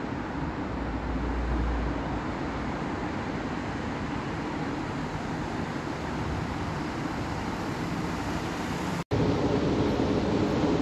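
Pendolino electric train rolling slowly into the station: a steady rumble and hum of the train and rails, with a brief low rumble about a second in. About nine seconds in the sound cuts abruptly and comes back a little louder, with a steady hum.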